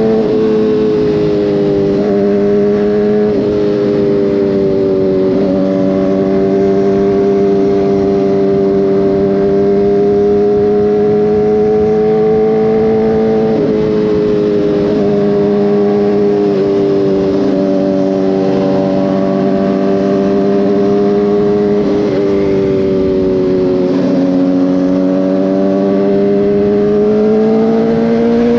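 Motorcycle engine running at steady road speed. Its pitch holds for several seconds at a time and shifts up or down in steps, with a drop about halfway through and a rise near the end.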